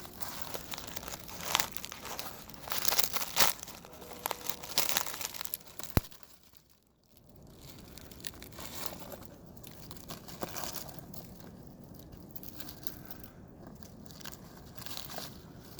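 Crinkling and tearing of a dry, papery wasp nest being broken open, in uneven bursts for about six seconds and ending in a sharp click, followed by quieter rustling.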